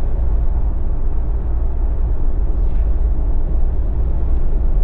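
A Jeep driving at a steady speed: a low, even rumble of engine and tyres on the road.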